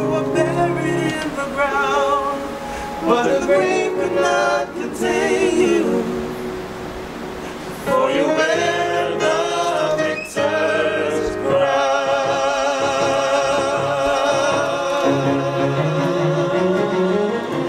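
Male vocal group singing a gospel song in harmony with musical accompaniment, softening to a quieter held passage about six to eight seconds in before swelling again.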